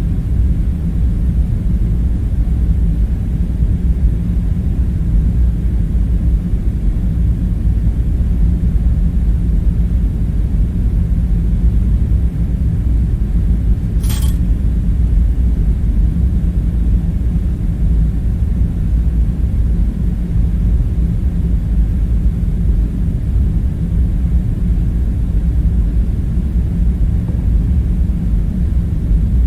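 Steady low rumble of background ambience, with a single short click about halfway through.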